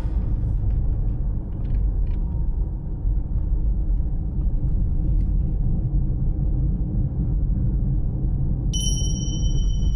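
Steady low rumble of a vehicle in motion, heard from inside it. Near the end a short, high electronic beep sounds for about a second.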